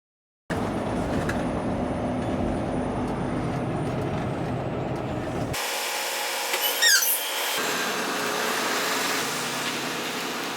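Steady low engine and road rumble of a semi-truck heard while driving, cut off about five seconds in. A lighter, hissier stretch follows, with a short run of high chirping squeaks near the middle.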